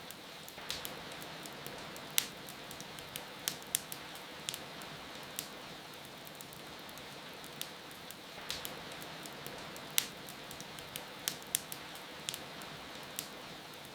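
Fireplace fire crackling, with sharp irregular pops, over a steady hiss of rain.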